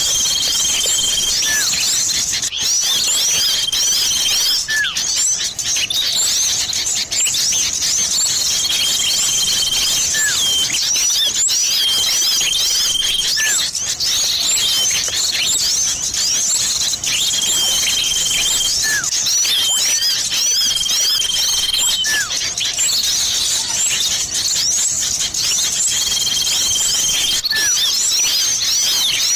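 Small songbirds calling as a lure track, a mix of sirtu and common iora (cipoh) calls: a dense, continuous high twittering of quick chirps, with long level whistles about a second long repeating every two to four seconds.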